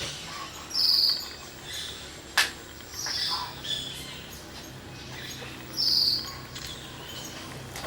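Small tropical birds giving short, high chirping calls about every two to three seconds, with fainter chirps between them and insects in the background. A single sharp click comes about two and a half seconds in.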